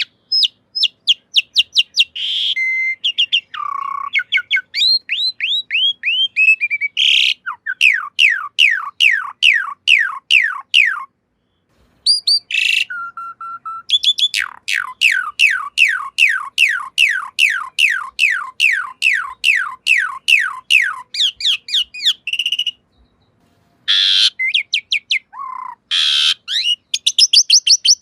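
Asian pied starling (jalak suren) singing: long runs of quick, falling whistled notes, about three a second, mixed with rougher, noisier calls. The song breaks off briefly twice.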